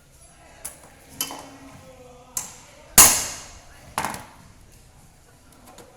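Metal hand tools and engine parts knocking and clanking during a cylinder-head overhaul: five separate sharp knocks with a short ring after each, the loudest about three seconds in.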